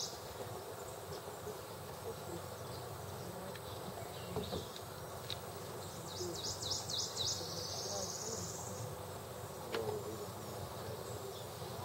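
Insect buzzing: a run of short high-pitched pulses about six seconds in, then a long rising buzz, over a low steady background hum.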